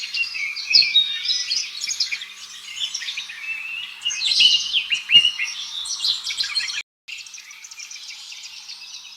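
Bluebird singing in a quick run of short chirps and warbles. The recording drops out briefly about seven seconds in, and fainter chirping with background hiss follows.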